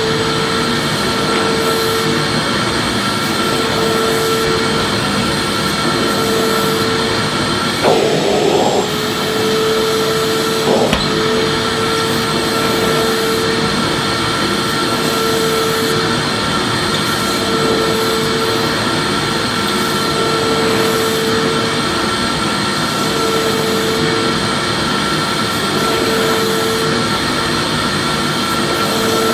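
Vacuum cleaner running steadily: a constant rushing noise with a high, even whine, and a lower hum that comes and goes every couple of seconds. There is a brief disturbance about eight seconds in and a short knock about eleven seconds in.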